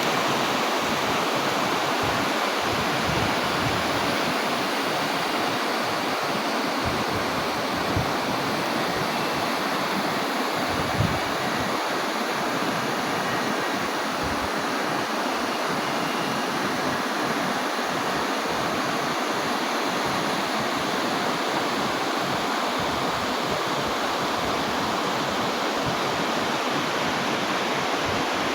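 Heavy downpour of torrential rain: a steady, dense hiss, with two brief knocks about eight and eleven seconds in.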